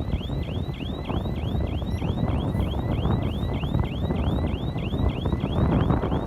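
Komatsu bulldozer's diesel engine running under load: a steady low rumble, with wind buffeting the microphone. A faint high chirp repeats about three times a second over it.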